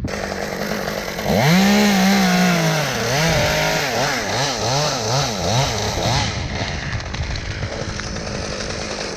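Chainsaw engine revving up about a second in, then its pitch swinging down and up repeatedly for several seconds before settling into a steadier running sound.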